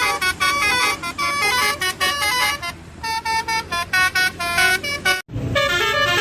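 Musical 'telolet' bus horn of the Basuri type playing a quick tune of short stepped notes; it cuts off suddenly about five seconds in and a new run of notes starts.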